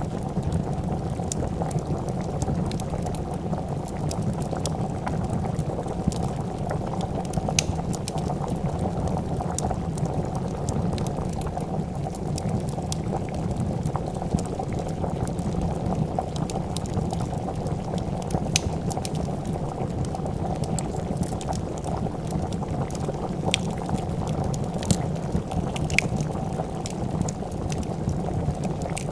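A pot of soup bubbling at a steady boil, with scattered sharp pops and crackles of a wood fire over it.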